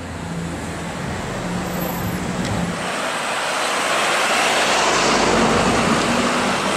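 Maserati GranTurismo MC Stradale's V8 running at low revs as the car pulls away. About three seconds in it gives way to a growing rush of city traffic noise as vehicles approach.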